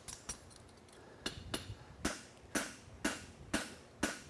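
Farrier's hammer forging a steel horseshoe on the anvil. After a few light taps at the start, the blows come steadily about two a second, each with a short metallic ring.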